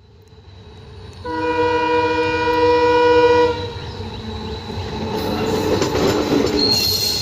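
ALCO WDM-3D diesel locomotive sounding one long horn blast of a bit over two seconds as it approaches, then running past with heavy engine rumble and rapid clicking of wheels over the rail joints. A thin high squeal rises near the end.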